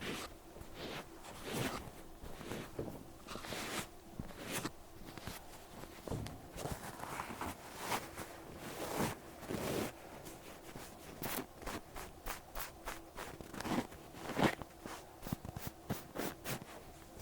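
Cotton pad wiping and rubbing over an ear close to the microphone, in short, irregular scratchy strokes that come quicker in the second half.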